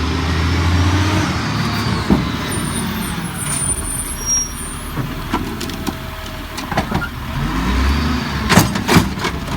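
Lodal refuse truck running at the curb, its engine rumbling steadily, with a few sharp knocks through the middle and a cluster of louder knocks near the end.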